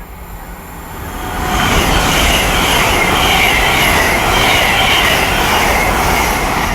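GWR Class 802 bi-mode express train passing through the station at speed without stopping. Its wheel and rail noise builds over about a second, then holds as a loud, steady rush and begins to fade near the end.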